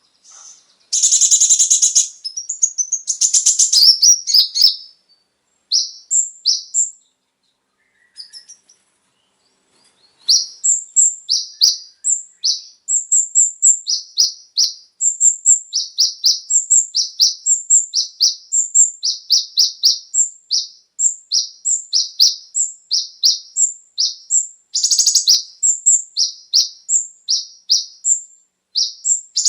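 Kolibri ninja (konin) sunbird singing. It opens with dense, rapid, high trills, pauses briefly, then gives a long run of short, sharp high chirps at a quick, steady pace, with another burst of trilling near the end.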